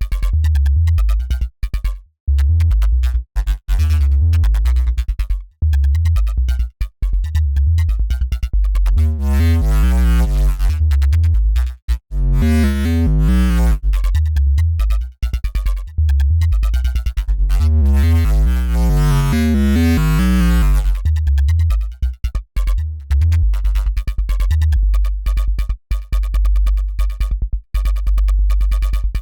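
Dirty FM synthesizer bass riff playing: deep bass notes in a choppy, stop-start rhythm, with a gritty wobbling growl higher up that comes in twice, about ten and nineteen seconds in.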